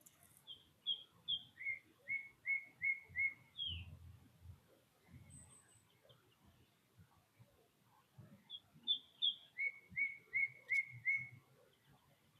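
A songbird singing twice. Each phrase is three quick higher notes followed by five evenly spaced lower notes.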